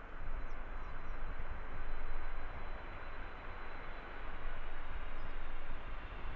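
Boeing 747's four turbofan engines in a steady, deep rumble, with a thin high whine over it.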